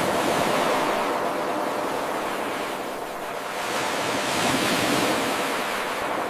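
Ocean surf: a steady rushing wash of waves that swells twice, near the start and again about two-thirds of the way through, easing off in between.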